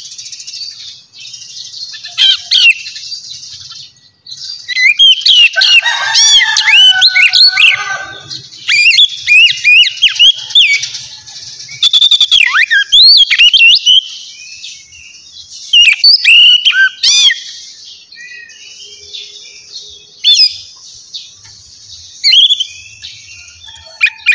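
Birds chirping and twittering: many short, quick high notes over a continuous chatter, busiest with some lower calls mixed in about five to eight seconds in.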